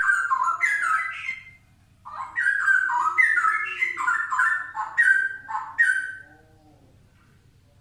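Straw-headed bulbul singing: loud, liquid, bubbling whistled phrases in two bursts, a short one at the start and a longer one after a brief pause, ending about six seconds in.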